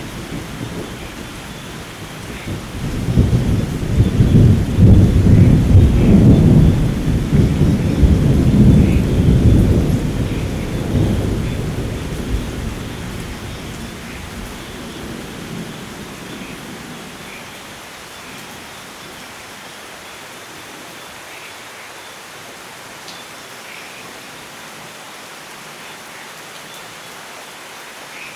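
Rolling thunder over steady rainfall in a rainforest thunderstorm. A low rumble builds about three seconds in, stays loud for several seconds and then slowly fades away, leaving the even hiss of the rain.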